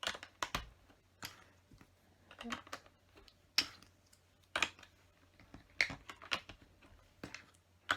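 Plastic LEGO bricks clicking and clattering as they are handled and pressed together: an irregular run of sharp little clicks, a dozen or more.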